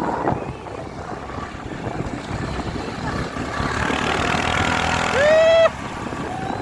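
Motorcycle engine running under way with wind on the microphone, the engine note building from about three seconds in. About five seconds in, a loud tone sweeps upward and then cuts off sharply.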